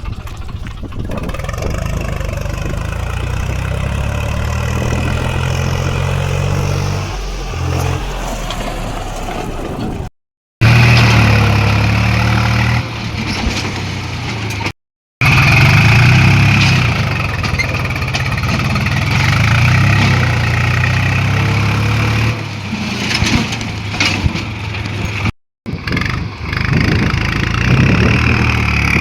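Tractor's diesel engine running hard and revving under a heavy load of sand. The sound drops out abruptly three times for a moment, where clips are joined.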